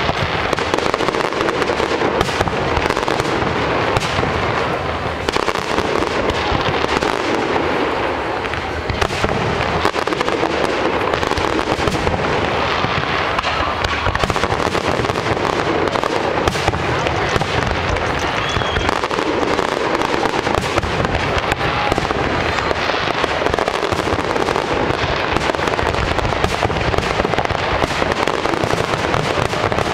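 Aerial fireworks going off in a dense, unbroken barrage of bangs and crackles, with no pause.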